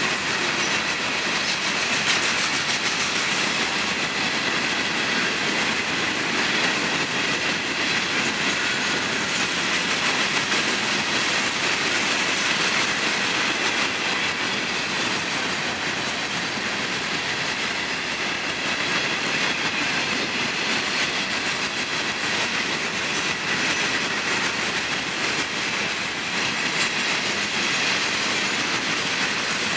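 Freight cars of a long train rolling past steadily, wheels clattering over the rails, with a thin high wheel squeal running over the noise.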